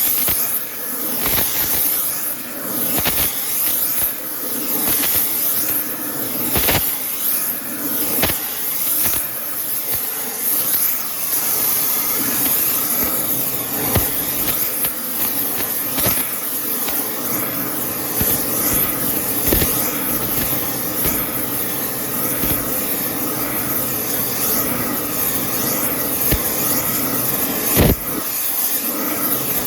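Arc welding on a steel truck wheel hub, building up the bore that a spun bearing scored: a steady hissing crackle with irregular sharp pops.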